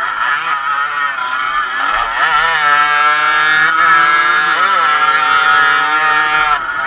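Dirt bike engine revving hard, its pitch climbing and dropping several times as the throttle is worked and gears change over the rough track.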